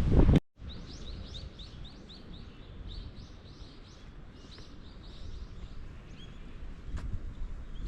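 Small bird singing: a quick run of short, high, rising chirps, about three a second, for roughly three seconds, then scattered single calls over a low outdoor rumble. Loud wind on the microphone is cut off abruptly about half a second in.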